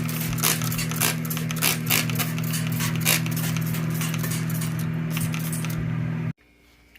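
Sink being cleaned: a run of short, irregular scrubbing scrapes over a steady low hum. Both cut off abruptly near the end.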